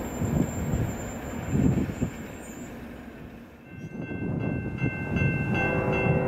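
Freight train rumbling past. About four seconds in it gives way to a locomotive horn chord, faint at first and then louder near the end.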